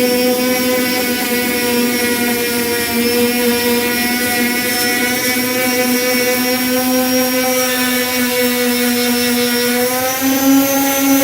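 Power sander with a 240-grit disc running steadily, sanding body filler smooth, in one constant hum. Its pitch rises a little near the end.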